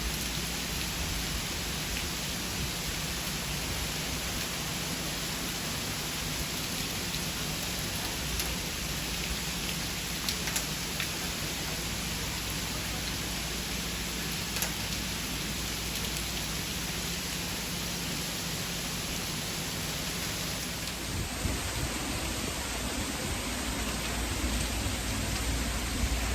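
Steady, even rushing of water, with its character shifting slightly about twenty seconds in.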